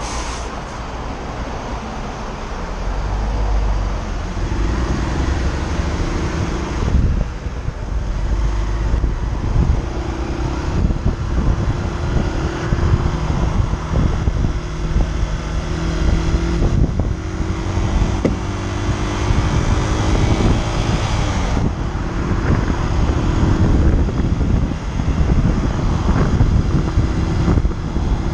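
Motorcycle riding in traffic, heard from a camera on the bike or the rider's helmet. The engine runs under heavy wind buffeting on the microphone, its pitch rising gently and dropping back several times.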